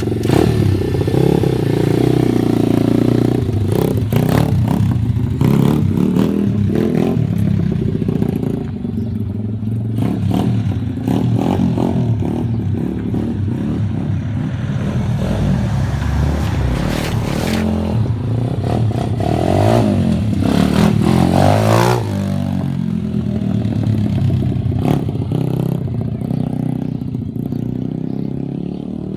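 140cc dirt bike engine running and being revved, its pitch rising and falling repeatedly, with clattering knocks through it.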